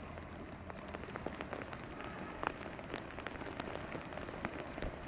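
Steady rain falling on open water: an even hiss full of separate drop ticks.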